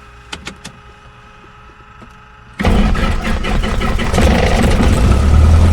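A few faint clicks, then about two and a half seconds in the Cessna 172S's four-cylinder Lycoming engine starts abruptly. It keeps running, settling into a steady idle.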